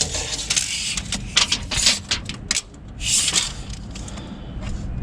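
Tape measure being handled: a quick run of sharp clicks and rattles with short bursts of scraping as the blade is run out and slid.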